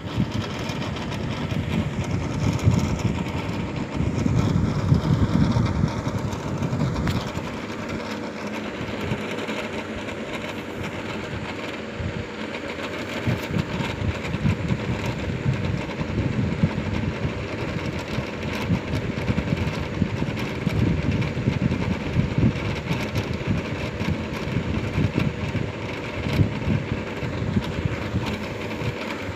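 Steady mechanical-sounding hum with a faint constant tone, overlaid by low rumbling that swells twice.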